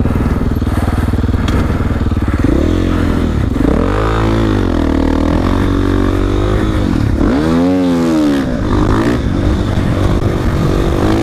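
Dirt bike engine running under the rider, its revs climbing and dropping as the throttle opens and closes, with two clear rises and falls in pitch through the middle.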